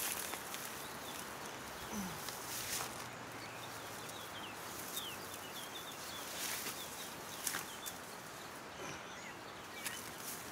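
Quiet outdoor ambience with faint short bird chirps now and then, and scattered soft rustles and clicks of leaves and branches being moved.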